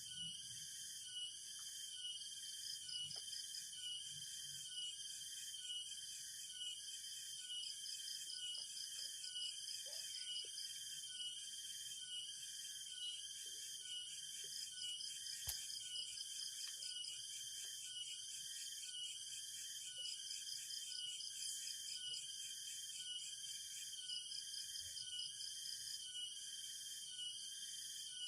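Chorus of forest insects: several layered high-pitched trills, one pulsing about once a second over a steady shrill tone, with a few faint clicks.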